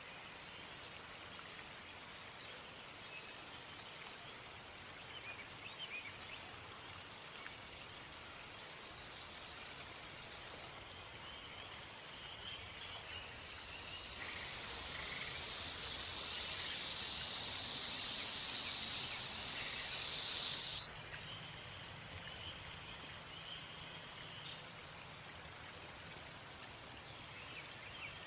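Black rat snake (Pantherophis alleghaniensis) hissing in a defensive threat display: one long, loud hiss of about seven seconds, starting about halfway through and cutting off suddenly, over faint bird or insect chirps.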